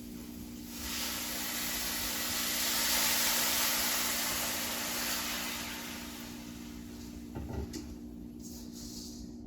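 Fresh chow mein noodles frying in oil and soy sauce in a hot wok: a loud sizzle starts about a second in, swells and dies away after about five seconds. A steady low hum runs underneath, and a brief clatter comes near the end.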